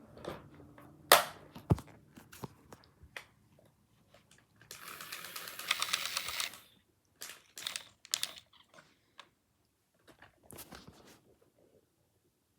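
Hard plastic toy truck and helicopter being handled: scattered clicks and knocks, with a rustling scrape lasting about two seconds near the middle.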